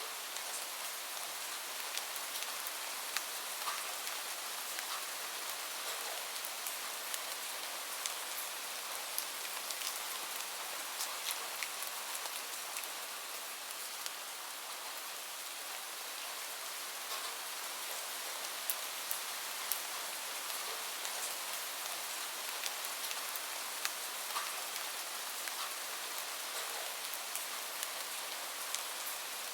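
Steady rain, an even hiss dotted with many small sharp ticks of drops.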